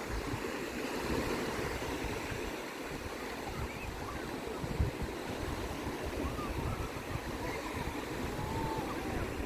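Sea waves washing on the shore, a steady rush of surf, with wind buffeting the microphone.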